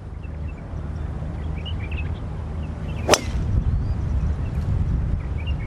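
A golf club strikes the ball once, a sharp crack about three seconds in, over a steady low rumble of wind buffeting the microphone.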